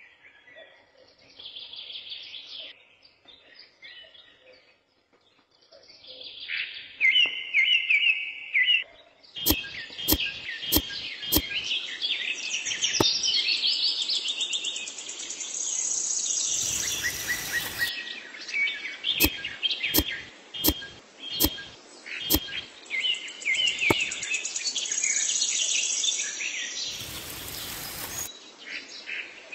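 Small birds chirping and singing in quick repeated phrases, with groups of sharp clicks about halfway through and twice a short burst of hiss.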